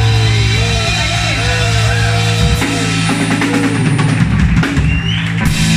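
Live rock band playing: a held bass note under guitar, then drum-kit fills from about halfway, with a cymbal crash near the end.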